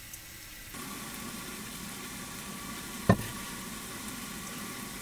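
Chicken frying in a small pan on a camp stove, a steady sizzle that grows a little louder under a second in. A single sharp knock about three seconds in.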